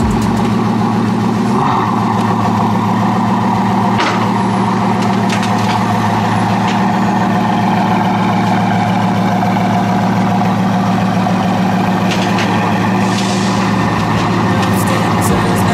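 Bugatti Veyron Super Sport's quad-turbocharged W16 engine idling steadily.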